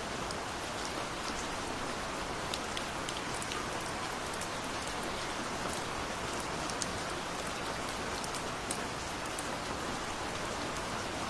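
Steady gentle rain falling, with a constant hiss and scattered individual drops ticking.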